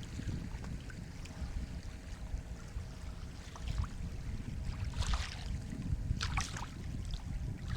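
Sea water with a steady low rumble and a couple of brief splashes of water, about five seconds in and again a second later.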